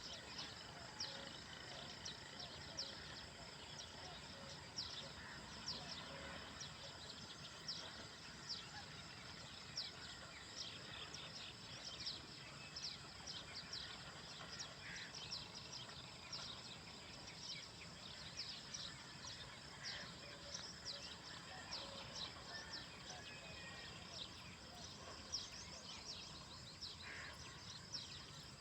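Birds chirping throughout: many short, high, falling chirps, several a second, over a faint steady hiss.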